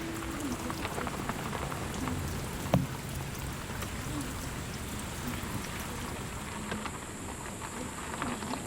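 Steady rain falling, with many small drop impacts throughout and one sharper knock just before three seconds in.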